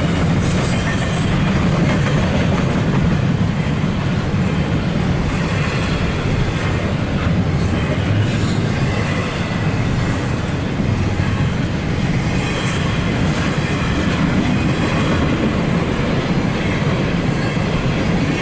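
CSX freight train cars rolling past at close range: a steady rumble with wheel clatter over the rail joints.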